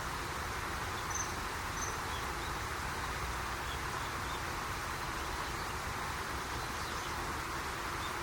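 Steady rushing of flowing river water, with two faint, short, high-pitched chirps about a second in from a common kingfisher.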